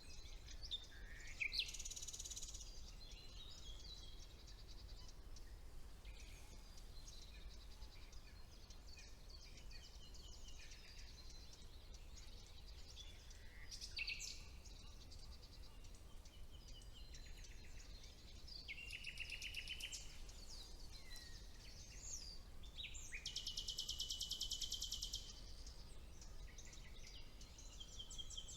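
Songbirds singing in spring woodland, a common nightingale among them: varied song phrases of sweeping whistles, fast trills and rapidly repeated notes, with a long dense trill near the end. A faint steady low rumble lies underneath.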